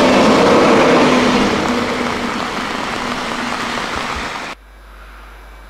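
British Rail Class 91 electric train running past at speed, a loud rushing noise with a few steady tones that fades away after about a second and a half. About four and a half seconds in it cuts off suddenly to a faint low hum.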